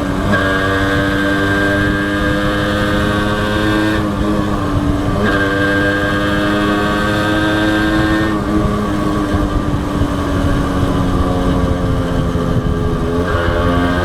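Honda CDI H100S's small four-stroke single-cylinder engine running steadily under way. Its note dips and recovers about four seconds in, again about five seconds in, and near the end, as the throttle eases off and picks up again.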